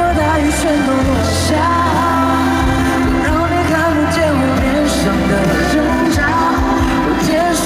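Live pop song at a concert: a melody sung over a full band, with steady bass and regular drum hits, heard through the venue's sound system.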